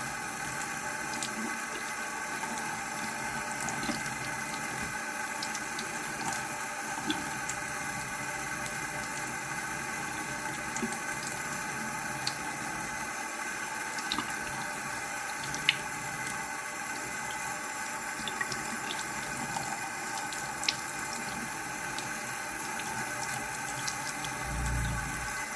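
Water running steadily from a tap into a sink, with scattered small sharp ticks throughout and a short low bump near the end.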